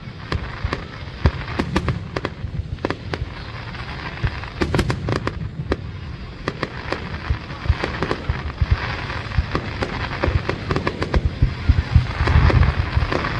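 Fireworks display: a rapid, irregular run of bangs over deep booming, with spells of dense crackling about two-thirds of the way in and again near the end.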